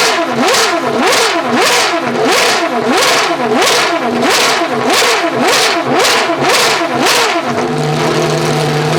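Pagani Huayra R's naturally aspirated V12 revved hard again and again, its pitch dipping and climbing about one and a half times a second, then held at a steady high rpm near the end.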